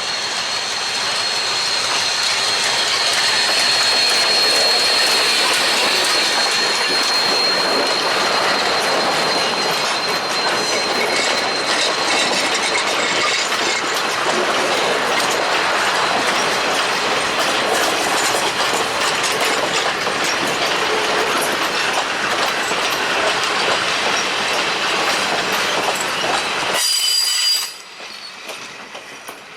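A train's cars rolling past on the rails, wheels clacking over the joints, with a steady high wheel squeal through the first third. Near the end the sound drops off suddenly to a much quieter background.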